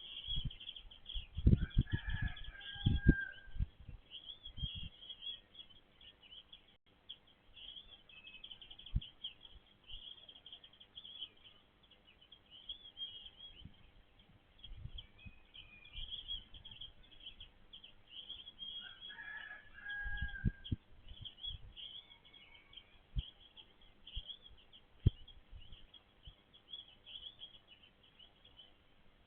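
Small birds chirping steadily and high-pitched throughout. Twice, near the start and about twenty seconds in, a rooster crows, with low thumps alongside.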